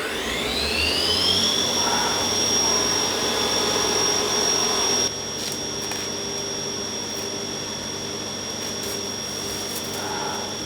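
Milling machine spindle spinning up with a rising whine, then running at a steady high whine. A louder rushing noise under it cuts off suddenly about halfway through, leaving the spindle running with a few light clicks.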